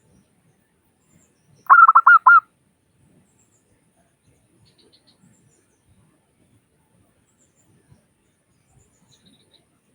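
Zebra dove (perkutut) cooing: one short bout of about five quick notes about two seconds in.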